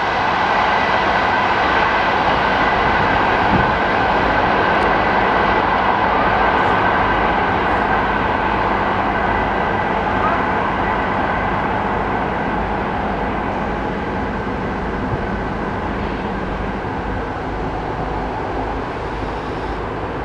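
Passenger train's coaches rolling away over the rails, a steady rumble with a faint constant hum that slowly fades.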